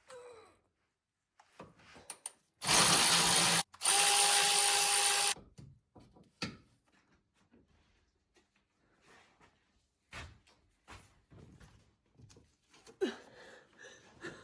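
Handheld power tool running in two bursts, about a second and then about a second and a half, with a short gap between them. Small clicks and knocks of handling follow.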